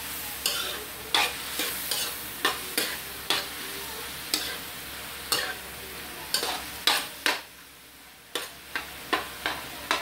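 Chicken gizzards frying in oil in a metal wok, stirred with a metal spoon: a steady sizzle broken by repeated clinks and scrapes of the spoon against the pan. The stirring pauses briefly about three-quarters of the way through, leaving a quieter sizzle.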